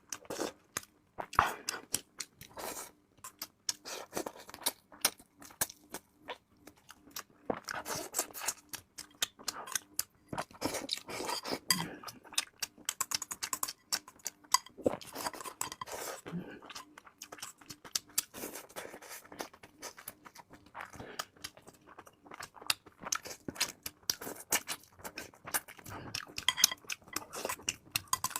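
Close-miked eating: a person chewing and biting chicken with wet mouth sounds, amid many irregular clicks of utensils against dishes.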